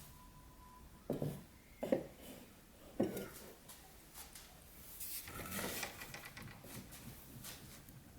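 Pieces of wood being handled: three short knocks in the first three seconds, then softer scraping and shuffling.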